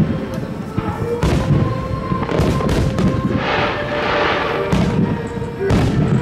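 Aerial firework shells bursting overhead, several sharp booms a second or so apart, over a song playing throughout. About three seconds in comes a hissing crackle lasting a second or so.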